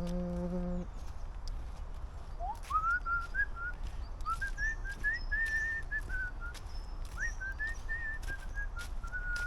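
A person hums a low held note that stops just under a second in, then whistles a tune in three short phrases of rising and held notes. Faint clicks and a low rumble run underneath.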